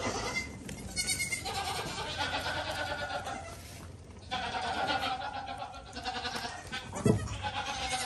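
Goat kids bleating, several calls in a row and some overlapping, with a short thump about seven seconds in.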